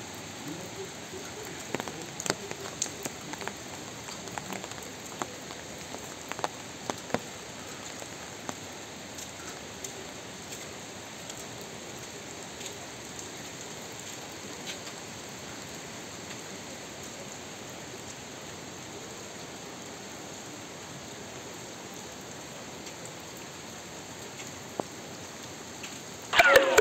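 Steady rain falling, with scattered louder drops in the first several seconds. A brief louder sound breaks in near the end.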